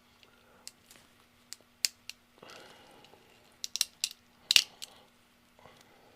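Small sharp plastic clicks and snaps as a 3D-printed part is worked free, the loudest about four and a half seconds in, over a faint steady hum.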